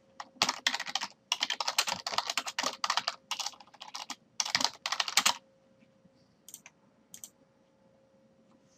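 Computer keyboard typing in fast runs of keystrokes for about five seconds, then a couple of single key presses.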